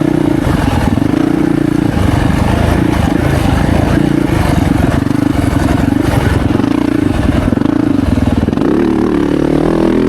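Yamaha YZ450F dirt bike's single-cylinder four-stroke engine being ridden hard, its revs rising and dropping again and again as the throttle is worked on and off.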